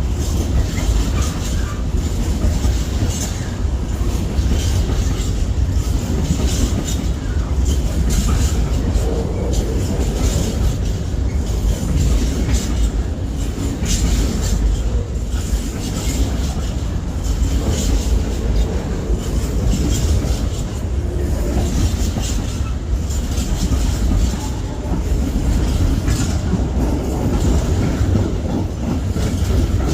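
Train rolling past, a long run of wagons with a steady low rumble and repeated clicks of wheels over the rail joints.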